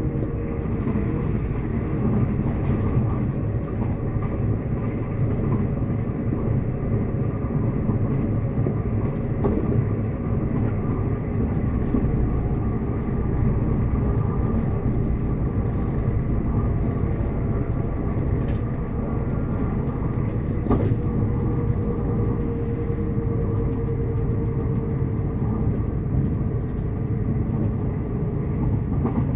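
Train running on the rails: a steady low rumble with faint tonal lines and occasional clicks. A faint held whine sounds for a few seconds about two-thirds of the way through.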